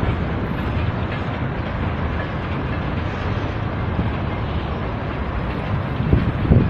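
Freight train rolling past: a steady rumble of wheels on the rails, with a few knocks near the end.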